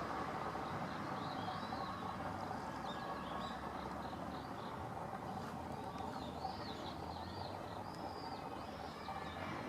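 A bird chirping over and over in short, high, up-and-down notes, over a steady low background rumble.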